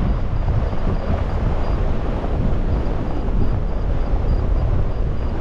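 Strong gale-force wind buffeting the microphone: a loud, steady, gusting rumble.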